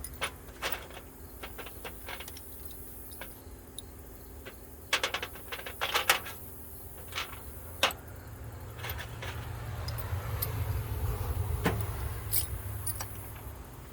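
Small metal tools clinking and rattling as they are handled and sorted, with scattered sharp clicks and knocks. A low hum comes in about eight seconds in and fades near the end.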